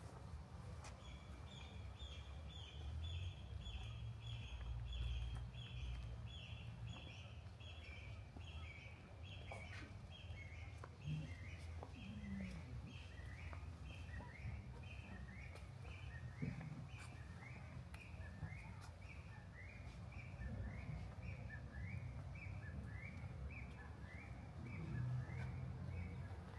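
A bird calling over and over: one short, high chirp repeated about twice a second, very evenly, over a low background rumble.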